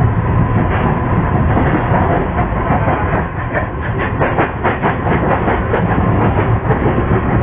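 MEMU electric passenger train running along the line: a steady rumble of wheels on rails, with a quick run of clacks over rail joints about four seconds in.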